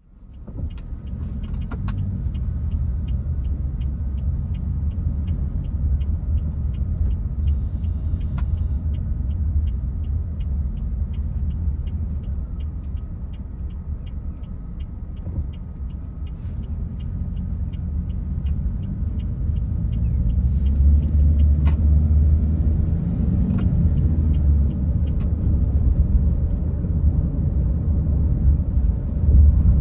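Car driving, a steady low road-and-engine rumble heard from inside the cabin, growing louder about two-thirds of the way through as the car picks up speed. A rapid, even ticking of a turn-signal indicator, about two to three ticks a second, runs over it and stops about twenty seconds in.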